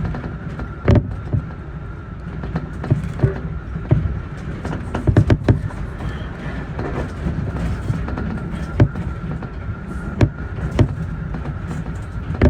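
Keio Inokashira Line electric train running, heard from on board: a steady rumble, with irregular sharp clacks as the wheels cross rail joints and a faint steady high tone.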